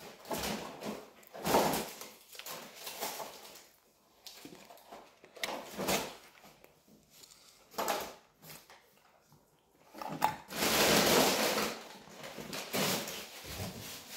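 A person chewing a mouthful of a fish fillet burger, in irregular short bursts with quiet pauses between them; a longer, louder stretch of noise comes about ten seconds in.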